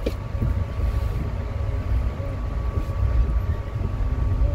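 Low, uneven rumble of a passenger train's carriage rolling into a station, heard from inside the coach, with a faint steady high whine.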